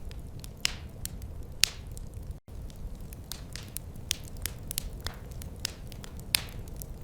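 Wood fire crackling in a fireplace: irregular sharp pops and snaps over a steady low rumble of burning. The sound drops out for an instant about two and a half seconds in.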